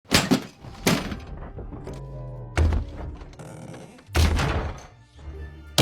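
A series of heavy thuds, five hard hits about a second or more apart, each with a short ringing tail, over music.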